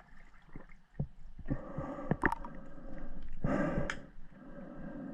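A scuba diver breathing through a regulator underwater: the hiss and bubbling of breaths, loudest just past the middle.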